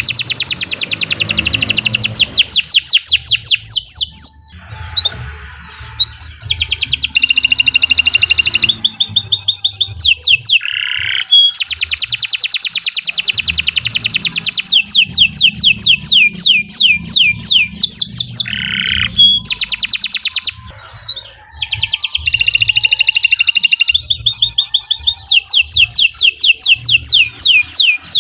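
Domestic canary singing long, rapid trills: runs of fast repeated downward-sweeping notes, broken twice by brief pauses and changing to a different trill type between phrases.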